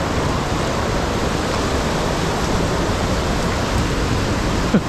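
Steady rush of fast water in a mountain stream, with a short sharp sound with a falling pitch just before the end.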